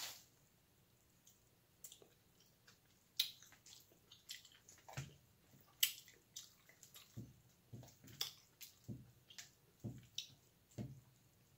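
Faint, close-up wet chewing and lip-smacking of someone eating corn on the cob, an uneven run of soft smacks and clicks starting about two seconds in.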